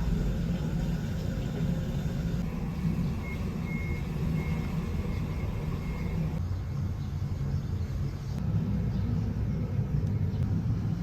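A car driving, a steady low rumble of engine and road noise. A run of short, high, evenly spaced beeps sounds for about three seconds, about a third of the way in.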